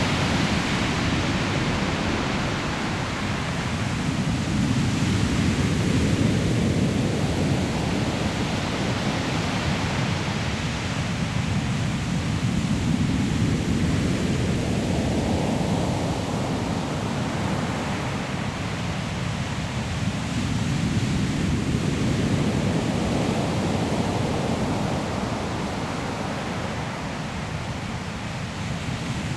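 Sea waves breaking on a pebble shore: a continuous surf roar that swells and eases in slow surges several seconds apart.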